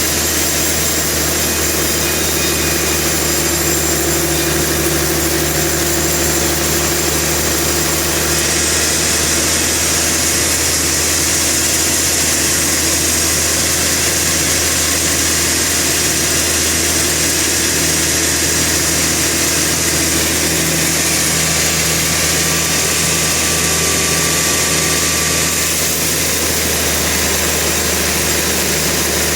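Sawmill machinery running steadily with an engine-like drone. A brighter high hiss joins about eight seconds in and fades a few seconds before the end.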